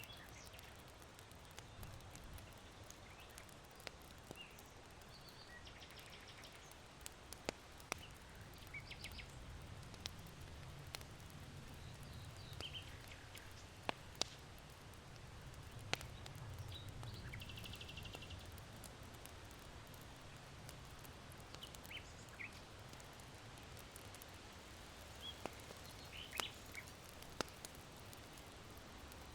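Charcoal in an irori hearth crackling with scattered sharp pops, while small birds chirp in short trills over a low rumble of wind.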